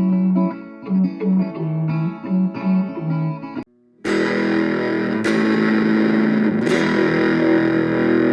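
Guitar music: a run of separate picked notes, then, after a brief cut about four seconds in, a fuller sustained guitar passage with a distorted, effects-laden tone.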